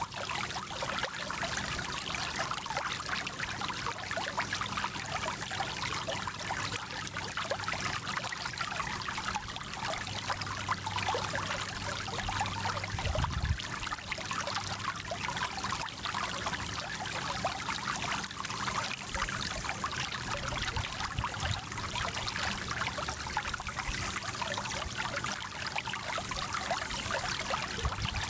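A small mountain stream flowing and trickling in a steady, even rush of water, with a brief low rumble about halfway through.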